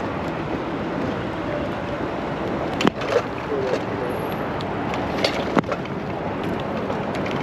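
Steady rolling noise of bicycle tyres on pavement mixed with wind on the microphone, with two sharp knocks about three seconds and five and a half seconds in, and a few lighter ticks.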